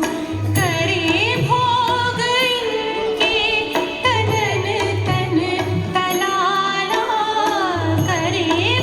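A ghazal sung by a solo voice in Indian classical style, the melody sliding and ornamented, over a low hand-drum beat that comes in groups of strokes.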